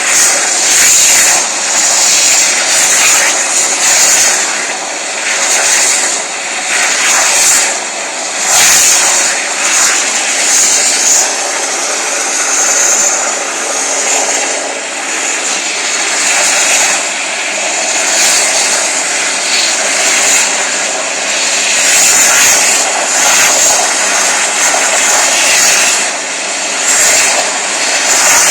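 Vacuum cleaner running with a loud hiss, its level swelling and dipping every second or two.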